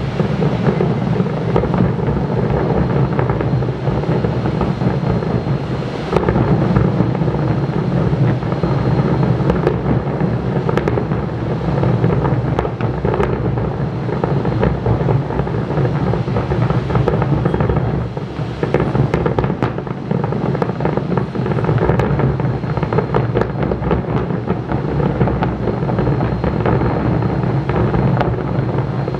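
Aerial fireworks display going off in a continuous barrage: a steady rumble of overlapping booms with many sharp bangs and crackles throughout.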